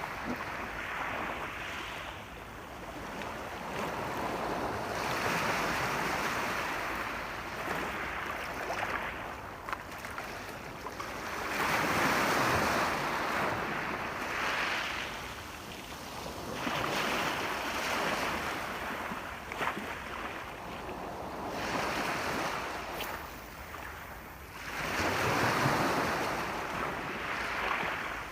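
Sea waves breaking and washing ashore, the surf swelling and ebbing about six times at intervals of four to five seconds, loudest about halfway through and near the end.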